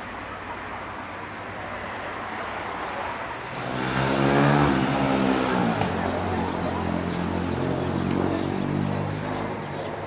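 A motor vehicle's engine passing close by. Its note swells about a third of the way in, bends up and then down, and the engine keeps running steadily before fading near the end.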